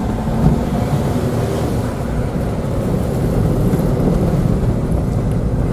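Citroën Saxo driving along a wet, snowy road: a steady low rumble of engine and tyres.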